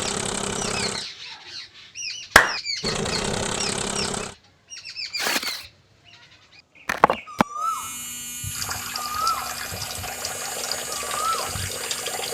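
Small electric motor of a homemade mini water pump running in short bursts, switched off and on with clicks. About eight seconds in it settles into a steady hum with water running. Birds chirp in the background.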